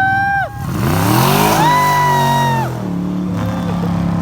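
Drag car engine revved hard: a rev climbs steeply to a high, held pitch, holds for about a second, then falls away. Near the end the engine settles to a lower, steady pitch.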